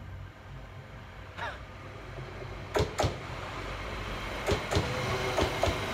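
A train approaching along the platform, its running noise growing steadily louder, with sharp clacks: two close together about three seconds in and several more near the end.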